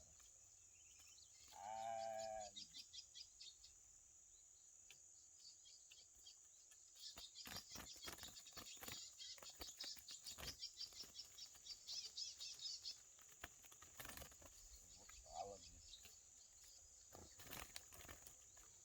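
Faint outdoor ambience: a steady high insect drone, a brief low bleat-like animal call about two seconds in, and a long rapid chattering bird trill with scattered clicks through the middle.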